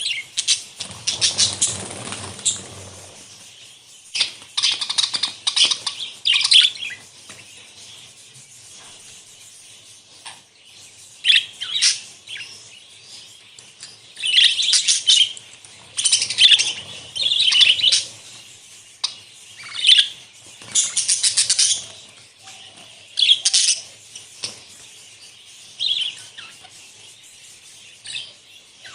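Budgerigars chirping in bursts of a second or two, with short pauses between. A low rustle sits under the chirping in the first few seconds.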